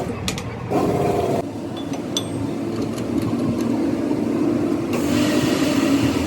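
An engine or motor running steadily, its pitch shifting a little, with a few light clicks.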